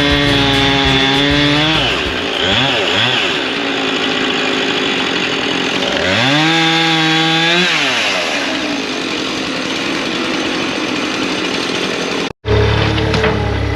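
Two-stroke chainsaw cutting firewood: the engine note drops and turns rough as the chain bites into the wood, revs up and falls back freely about six seconds in, then cuts again. Near the end the sound breaks off suddenly and gives way to a lower, steady engine idle.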